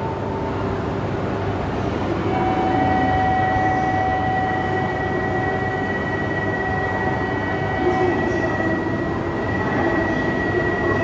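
E3-series Genbi Shinkansen trainset at the platform: a steady rumble with two thin, steady high-pitched tones that come in about two to three seconds in and hold.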